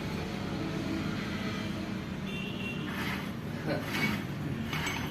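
An engine running steadily at low speed, a constant low hum, with a few faint knocks near the end.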